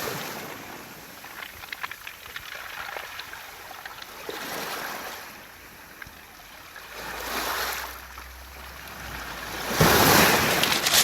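Waves washing over a beach of smooth round pebbles, the stones rattling and clicking as the water surges and draws back. The surges come about every three seconds, the last one the loudest.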